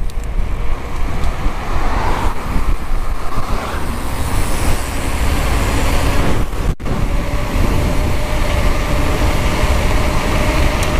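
Steady wind and rolling rumble on a helmet camera's microphone while riding a mountain bike. The noise is loud and heavy in the lows, broken by a brief dropout about seven seconds in.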